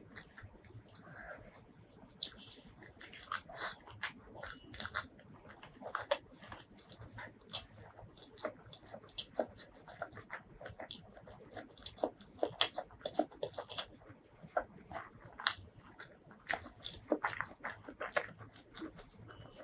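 Close-miked chewing of a mouthful of rice mixed with crispy fried strands, with irregular wet mouth clicks and light crunching.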